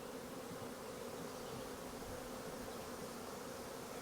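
Swarm of honeybees massed in hive boxes, buzzing with a steady, even hum.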